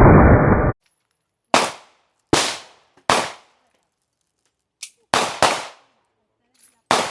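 Gunshots: six single shots fired at an uneven pace, several in quick pairs, each ringing out briefly. Before the first shot, a loud rushing noise cuts off suddenly.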